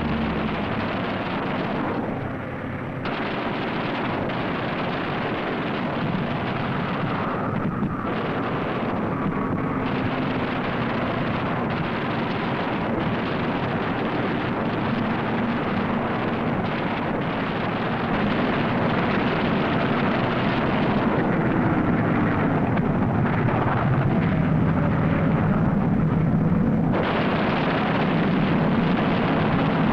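Loud, steady roar of piston fighter aircraft engines on a combat soundtrack. The engine note drifts up and down in pitch, and the sound changes abruptly several times, about three, eight and twenty-seven seconds in.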